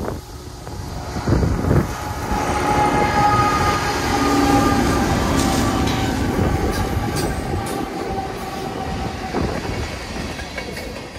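Freight locomotives passing close by at track speed with their diesel engines running, while a steady multi-note air horn sounds for several seconds. Wheels click over the rail as the units go by.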